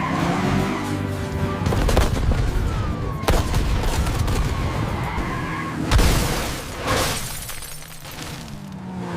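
Action-chase soundtrack: music over car engine and skidding sound effects, with several sharp bangs.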